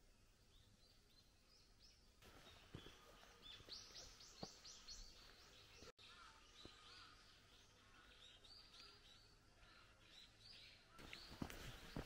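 Faint small-bird calls outdoors: rapid runs of high, repeated chirps that come and go. Near the end, sharp steps on a stone path begin.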